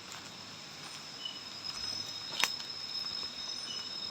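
Night insects, crickets among them, keeping up a steady high-pitched trill, with two short chirps and one sharp click about halfway through.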